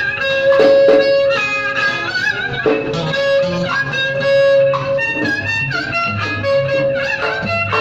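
Vietnamese ceremonial instrumental music: plucked and bowed string instruments playing a melody with sliding, bent notes.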